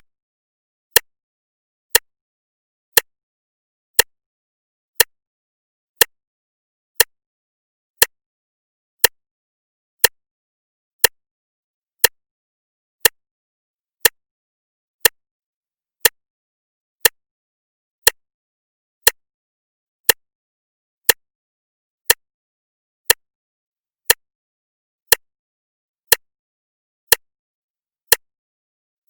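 Clock ticking steadily once a second: each tick is a single sharp click, with silence between ticks.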